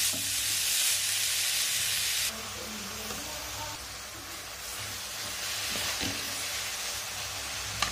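Grated coconut and jaggery sizzling in a hot kadhai while being stirred with a wooden spatula, frying until the jaggery melts. The steady sizzle steps down suddenly about two seconds in.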